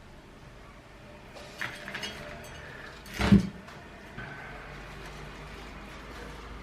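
Handling noises while repotting a cactus: scratchy rustling of soil and pot, then a single loud knock a little over three seconds in, like a pot being set down. A steady low hum sets in about four seconds in.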